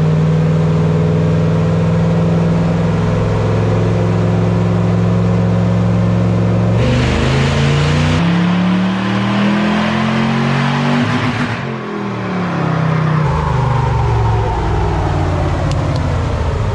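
Supercharged Toyota truck engine on a chassis dyno: it runs steadily under load for several seconds, then revs up in a full-throttle pull about seven seconds in, its pitch climbing for some four seconds before it lets off and winds down.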